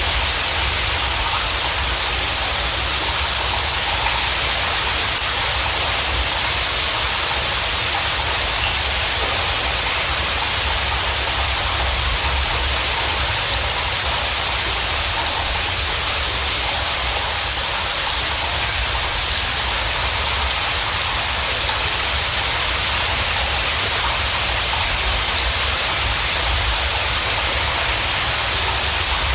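Steady heavy rain: an even hiss with a low rumble underneath and no bird calls or other events standing out.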